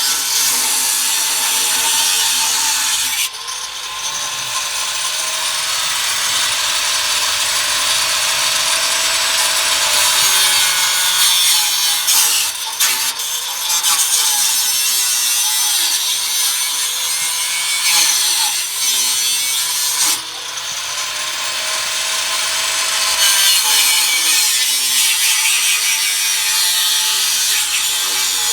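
Power saw cutting through the steel exhaust pipe: a harsh, continuous cutting noise with the motor's pitch sagging and recovering under load, and two short breaks as the cut is restarted.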